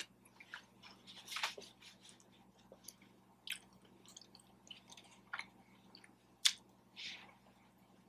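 A person chewing food close to the microphone: soft, irregular wet smacks and clicks of eating.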